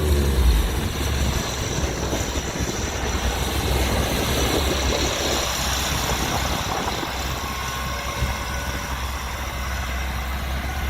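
Heavy diesel engine of a Kirovets K-700-series tractor running with a steady low drone, under a constant rushing noise.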